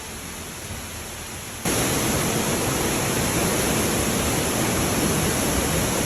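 Flash floodwater rushing and pouring, a steady rush of noise that gets abruptly louder about a second and a half in.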